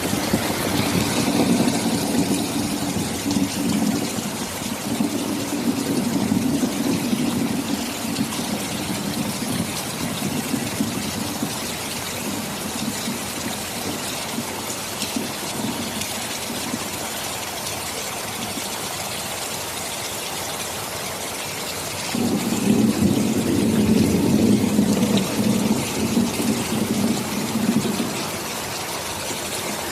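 Steady heavy rain with two long, low rolls of thunder: one through the first third of the stretch, and a louder one starting about two-thirds of the way in and lasting several seconds.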